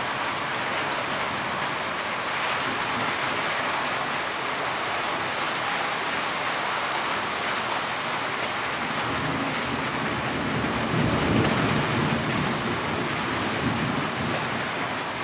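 Heavy rain falling steadily. A low rumble swells briefly about eleven seconds in.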